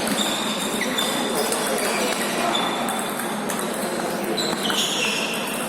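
Table tennis being played in a large hall: light clicks of celluloid-type ping-pong balls against bats and tables, over hall noise with several short high squeaks.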